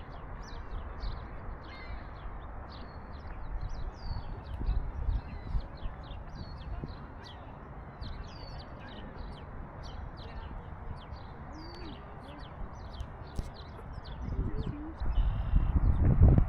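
Small birds chirping, many quick high notes repeating, over a steady low rumble. Near the end the low rumble swells and becomes the loudest sound.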